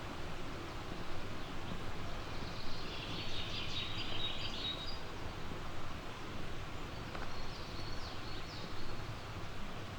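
A songbird singing a quick, high-pitched phrase from about three to five seconds in, with a few short chirps before and after, over a steady background rush.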